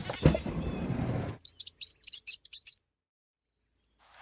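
Mouse squeaking: a quick run of about eight short, high squeaks, after a second or so of noisy sound at the start.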